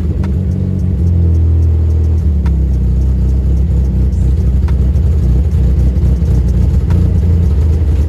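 Rebuilt Volkswagen Polo 1.4 four-cylinder petrol engine running steadily at a loud, even pitch.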